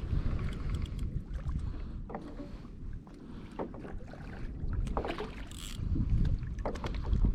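Wind rumbling on the microphone and water moving around a kayak on the open ocean, with a few light knocks and clicks from gear or the hull.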